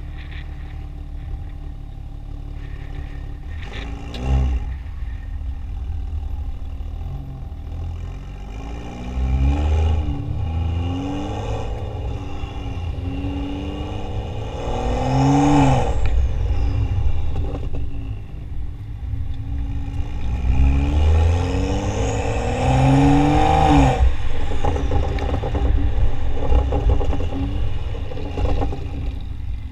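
Exhaust of a stage 2 tuned BMW F30 335i's turbocharged 3.0-litre inline-six, running through a catted downpipe and a modified factory muffler. It idles and is revved several times: a quick blip about four seconds in, then longer climbs in pitch that peak about halfway through and again near the three-quarter mark, each falling back to idle.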